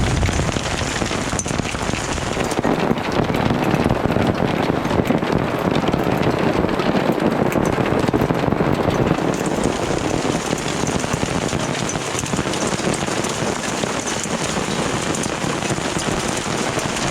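Dime-size hail and rain pelting down steadily: a dense, even hiss sprinkled with many small sharp hits.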